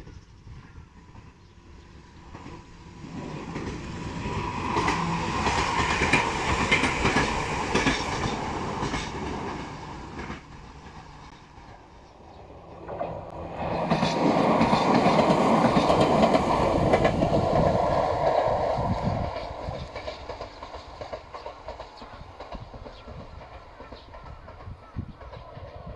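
Electric commuter train passing close by, wheels clacking over the rail joints, the sound building up and fading away. After a sudden change about halfway through, a second train pass swells up just as loud and dies down to a low rumble.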